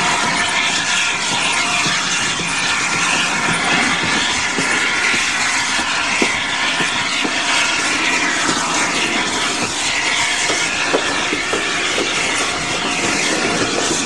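Steady rush of wind and wheel noise from a moving passenger train, heard from an open carriage window, with a few sharp clicks from the wheels on the rails in the second half.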